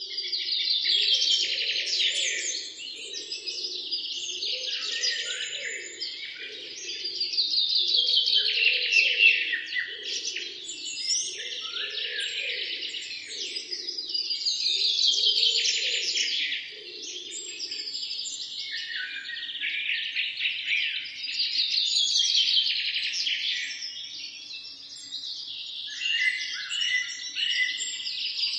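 Birds singing, a fast trilled song phrase that sweeps downward and repeats about every six seconds, with a fainter low pulsing call under it that stops about two-thirds of the way through.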